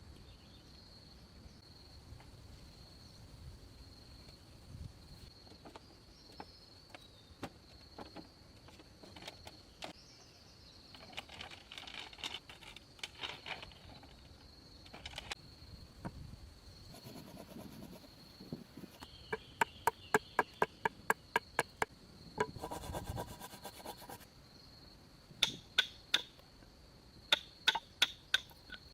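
Insects trill steadily on one high note over the sound of wood being worked by hand. About twenty seconds in comes a quick run of sharp knocks, roughly four a second, then a short rasping burst, then a few more loud knocks near the end.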